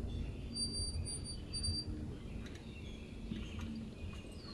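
A bird calling outdoors: three short, evenly spaced high notes about a second in, then one short falling note near the end, over a faint low rumble.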